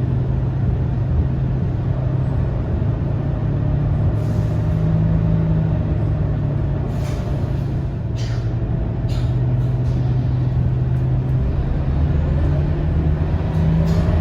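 Scania K230UB city bus's diesel engine running as the bus drives, its steady drone shifting in pitch a few times. Several short hisses of released air from the air brakes cut in over it, a few in the middle and one near the end.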